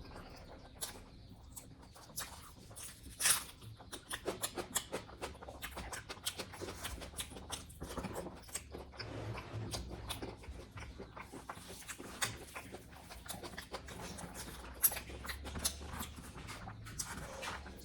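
Close-miked chewing and lip-smacking of a person eating spicy pork curry with rice: an irregular run of small wet clicks, with a sharper click about three seconds in.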